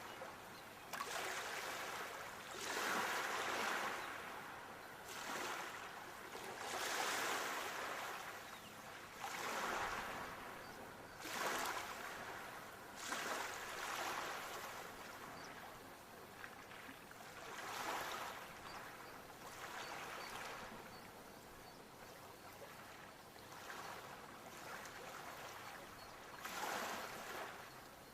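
Sea waves breaking and washing onto the shore, the surf swelling and fading every two or three seconds.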